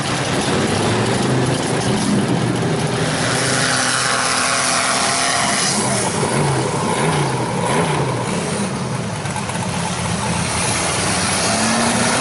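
Mud truck engine revving hard, its pitch climbing and dropping again and again, over a heavy rush of noise.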